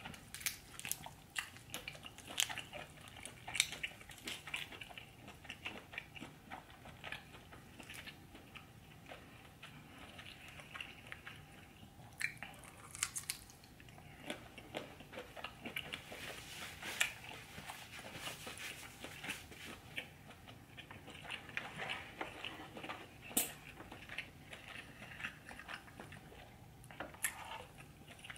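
A person chewing and biting food close to the microphone, with irregular sharp mouth clicks and smacks.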